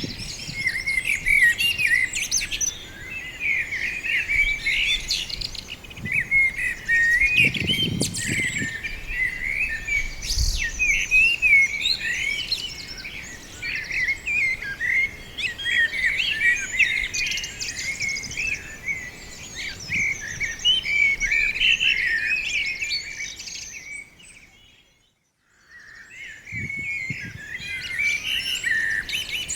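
A flock of small birds in a tree chirping and twittering in a dense, unbroken chorus of quick high calls. About three quarters of the way through it cuts out for roughly two seconds, then resumes.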